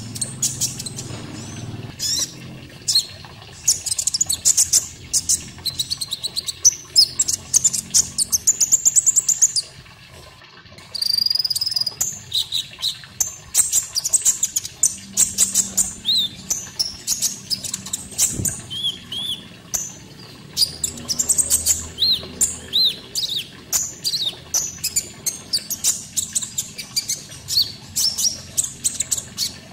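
Small songbird known in Indonesia as the konin, singing a fast, busy run of high chirps, twitters and short whistled notes, with barely a pause.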